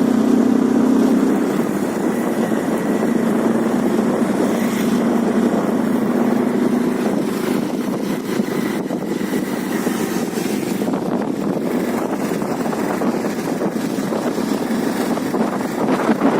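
Motorcycle engine running steadily on the move, with rushing wind and road noise; the engine hum is strongest in the first few seconds and then sinks into the wind.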